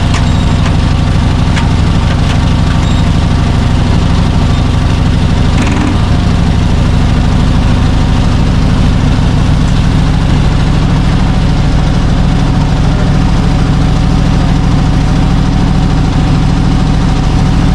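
Old Chevrolet C60 truck engine running steadily, with a brief change in its sound about six seconds in.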